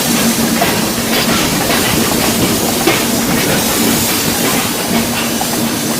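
Running noise of a moving passenger train: a steady, loud rushing hiss with a constant low hum underneath.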